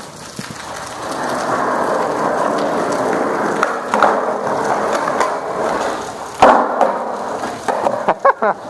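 Skateboard wheels rolling on pavement, with a loud clack from the board about six and a half seconds in and a quick series of knocks near the end.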